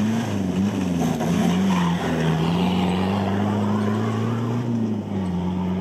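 Off-road 4x4's engine working hard through deep sand, its note rising and falling repeatedly as the throttle is worked.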